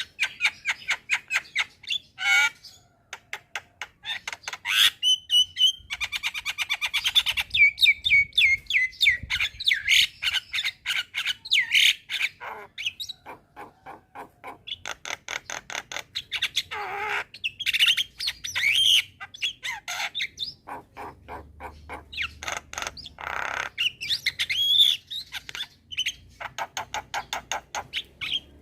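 Javan myna (jalak kebo) singing vigorously: long runs of rapid, rattling chatter notes broken by harsh squawks and short whistled glides.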